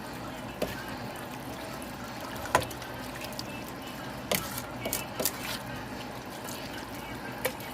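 Collard greens being stirred in a pot of seasoned liquid: sloshing water with a few spoon knocks against the pot, the loudest about two and a half seconds in.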